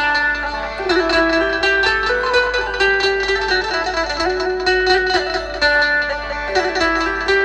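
Dhumal band music played loud through a sound system: a plucked-string melody moving in steps over quick repeated strokes.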